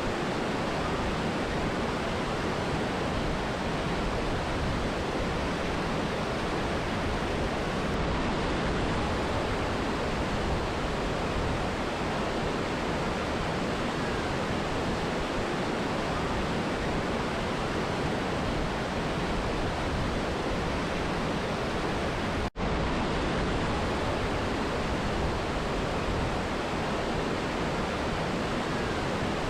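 Steady rushing of a mountain river and waterfall, an even unbroken roar of water. The sound drops out for an instant about three quarters of the way through, then carries on unchanged.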